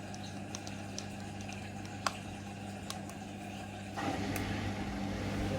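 Hoover Link washing machine's drain pump humming steadily as it pumps out the wash water, with a few faint clicks; about four seconds in the sound gets louder and fuller.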